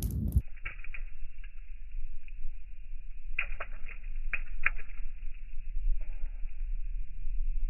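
Raindrops pattering: scattered clusters of sharp ticks over a steady low rumble.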